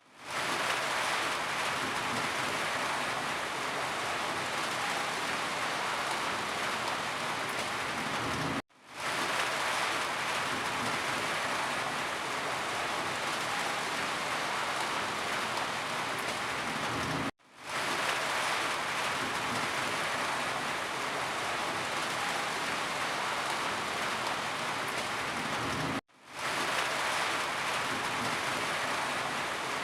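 Steady, dense rainfall hiss. It cuts to silence for a moment about every nine seconds, three times, and fades back in each time.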